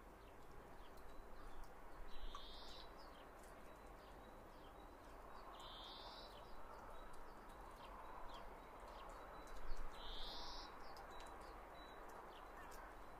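Faint outdoor background with a bird calling three times, one short call every four seconds or so.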